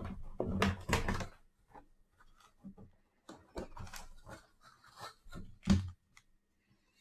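A sealed trading-card box being unwrapped and opened by hand: irregular crinkling and rustling of wrapping and cardboard, with scattered clicks and one sharp knock about six seconds in.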